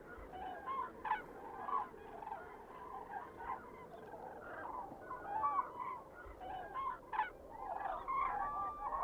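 A large flock of common cranes and whooper swans calling, many short calls overlapping without pause.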